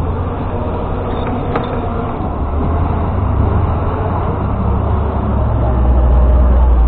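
Low, steady engine rumble of a large vehicle or machine, growing louder toward the end, with one sharp click about a second and a half in.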